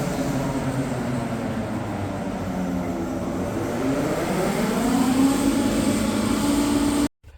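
Lorry engine running with a steady drone, its pitch rising from about halfway through as it speeds up and then holding steady. It cuts off abruptly near the end.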